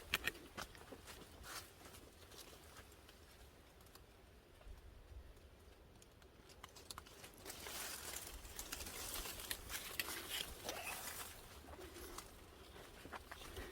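Footsteps and rustling on a trail, with scattered small clicks and a louder stretch of crunching about halfway through.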